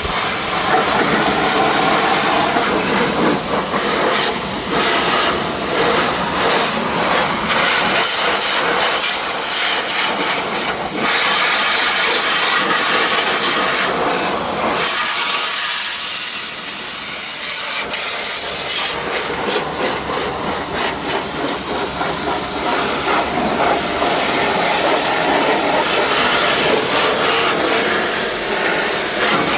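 Pressure washer jet spraying water against a car body, a steady hissing spray that changes briefly about halfway through as the jet moves.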